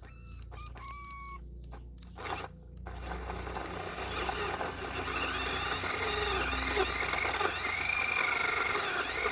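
Electric motors of radio-controlled model vehicles whining under load, their pitch rising and falling, growing louder from about three seconds in.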